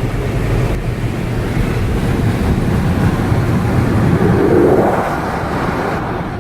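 Wind rushing through the open windows and sunroof of a moving Mercedes CLA45 AMG, over road and engine noise, loud in the cabin. It swells a little about four seconds in.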